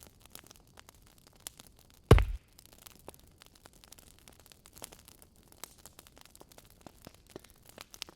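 Wood fire crackling with scattered small pops. About two seconds in comes a single heavy thunk, a chess piece set down on the board.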